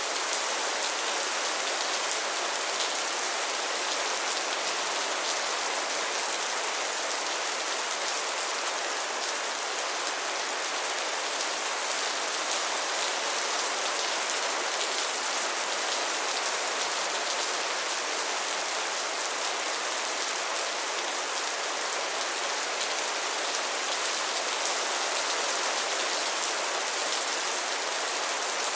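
Steady rain falling, an even hiss with fine drop ticks and no let-up.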